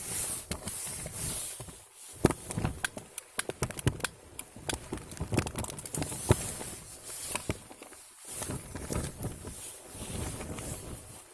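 Small wood fire catching in a rocket stove, crackling with irregular sharp snaps and pops over a steady high hiss.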